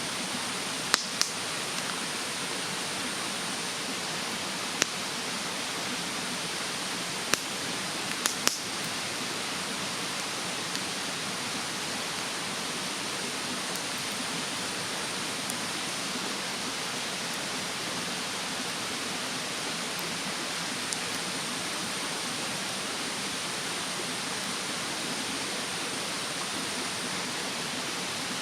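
Wood bonfire in a fire-pit stand crackling, with a handful of sharp pops in the first nine seconds and a few faint ones later, over the steady rush of a mountain stream.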